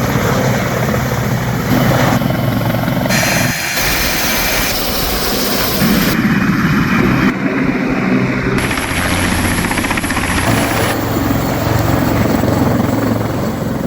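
Westland Lynx helicopter running, with its turbine engines and rotor heard in a series of short clips that change abruptly every second or two.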